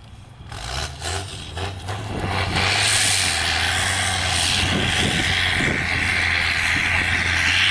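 Off-road trial truck's diesel engine running hard under load. It builds over the first two to three seconds, then holds loud and steady.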